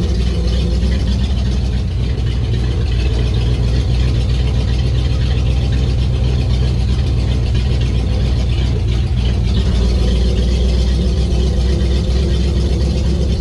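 An engine running steadily at an even speed, a loud, deep, unchanging hum.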